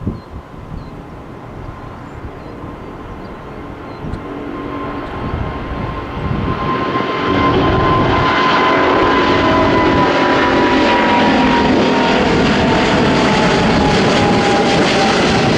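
Airliner's jet engines spooling up for the takeoff roll: the noise builds steadily for about seven seconds, then holds loud and even at takeoff thrust, with a thin whine running through it.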